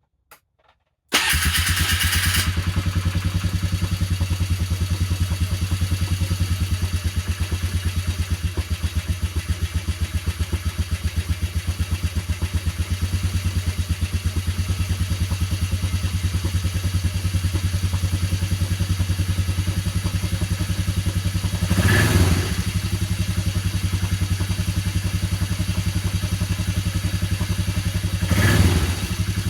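Engine cold start: a few small clicks, then about a second in it catches and settles into a steady, pulsing idle, starting readily ('not too cranky'). Two brief revs of the throttle near the end, one about 22 seconds in and one just before the end.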